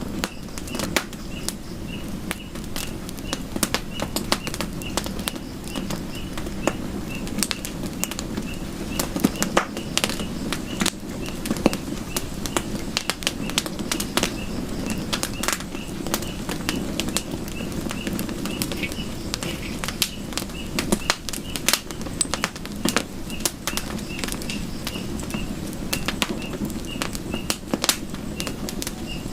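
Campfire burning: wood crackling and popping in sharp, irregular snaps over a low steady rush of flame, with a faint high chirp repeating at an even pace behind it.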